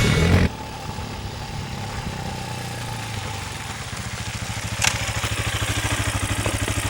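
CSC TT250 dual-sport motorcycle's single-cylinder engine idling with an even, quick pulse, growing slightly louder near the end, with one sharp click about five seconds in. Music cuts off just after the start.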